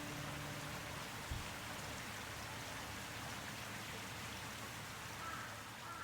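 Steady rain, an even hiss, with one soft low thump about a second in.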